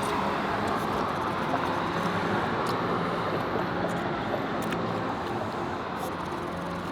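Steady hum of street traffic, with a few faint clicks.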